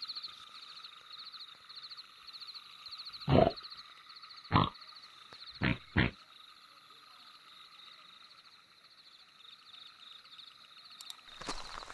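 Four short cartoon pig snorts, the last two in quick succession, over a steady high chirping of night insects. Footsteps begin near the end.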